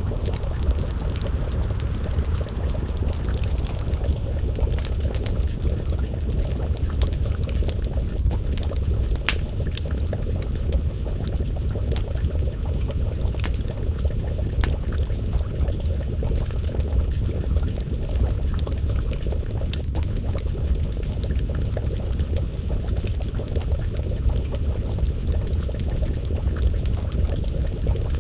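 Wood fire crackling with scattered sharp pops over a steady low rumble, while a pot of stew simmers, bubbling, over the flames.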